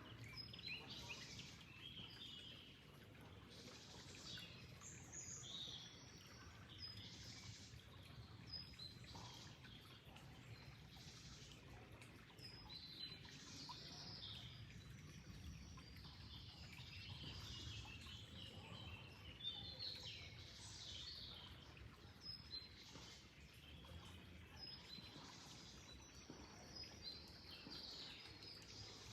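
Songbirds chirping and singing in short repeated phrases over a faint, steady low rumble of flowing water.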